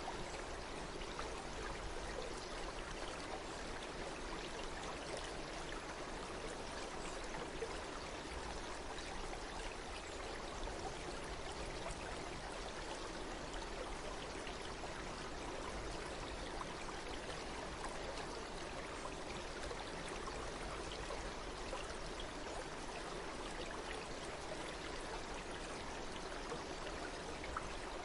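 Running water flowing steadily, an even, unbroken rushing sound.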